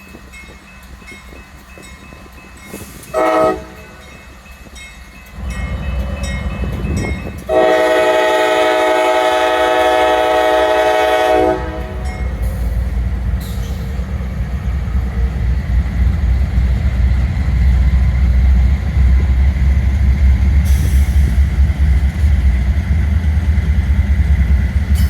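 Diesel freight locomotive's five-chime K5LA air horn gives a short toot about three seconds in, then one long blast from about seven to eleven seconds. The locomotive's deep engine rumble and the train's running noise then build and stay loud.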